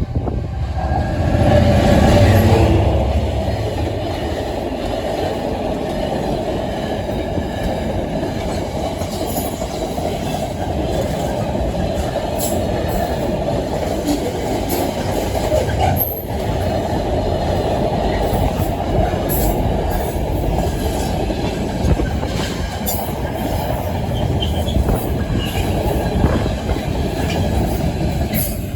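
GB Railfreight Class 66 diesel locomotive 66707 passing, its engine loudest about two seconds in, followed by a long rake of freight wagons rumbling past with scattered clicks of wheels over rail joints.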